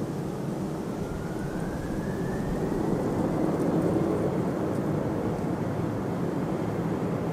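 Jet airliner engines running at high power, a steady rumbling roar with a faint whine that rises in pitch over the first few seconds and then holds, the noise swelling slightly near the middle.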